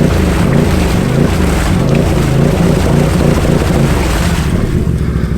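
Can-Am Outlander ATV's V-twin engine revving hard and unevenly, its pitch rising and falling, as it tries to pull free of deep mud while hung up on a buried stump.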